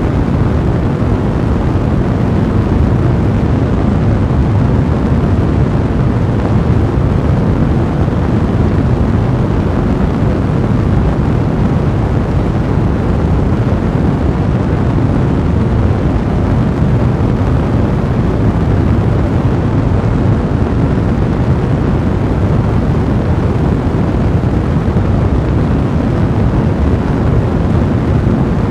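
Fire blazing in a fireplace: a steady, low, rushing noise of burning flames, unbroken throughout.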